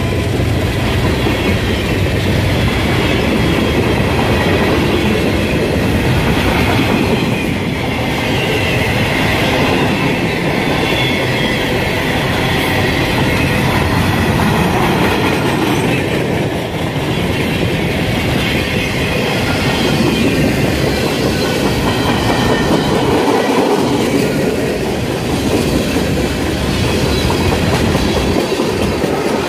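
CSX mixed freight train's cars (lumber flatcars, boxcars, tank cars) rolling past at close range: a steady loud rumble and clatter of steel wheels on the rails, with clickety-clack over the rail joints.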